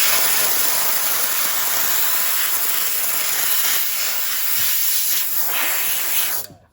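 Aerosol spray adhesive hissing in one long continuous spray, starting and stopping abruptly, as glue is laid on foam for an upholstery patch.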